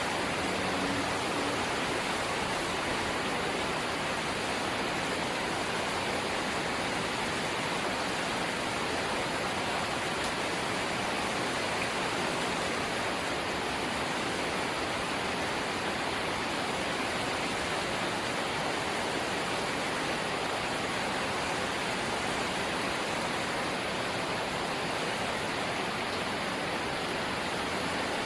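Steady light rain: an even hiss that does not change, with no separate drops or other sounds standing out.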